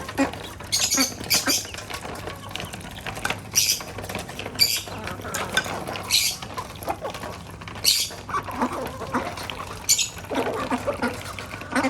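Domestic birds feeding and moving about: many short, sharp, high-pitched squeaks or clicks at irregular intervals, with low clucking calls toward the end.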